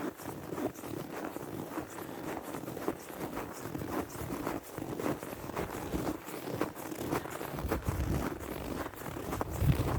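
Footsteps in snow at a steady walking pace. Low wind rumble on the microphone comes in near the end.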